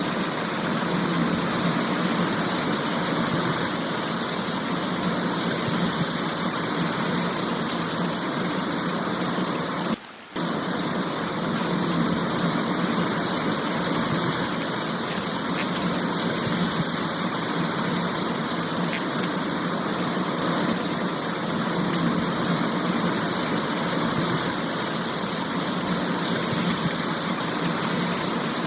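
Rainwater runoff rushing along in a steady, even flow, the early stage of a rain-fed flood. The sound drops out briefly about ten seconds in.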